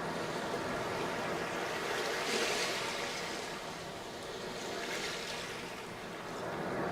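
Sea waves breaking and washing onto a sandy beach, a steady surf hiss that swells as a wave breaks about two and a half seconds in and again about five seconds in.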